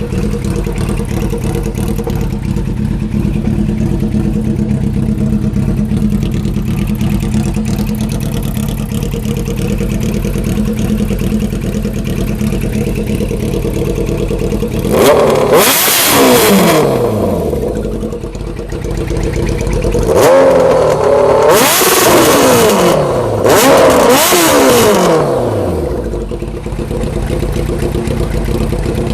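1993 Kawasaki Ninja ZX-11's inline-four engine running with no muffler, idling loudly, then revved three times, the pitch climbing and falling back to idle after each, before settling back to a steady idle.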